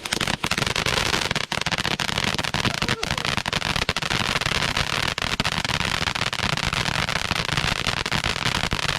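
Fireworks crackling and popping in rapid, unbroken succession, dozens of small sharp reports a second.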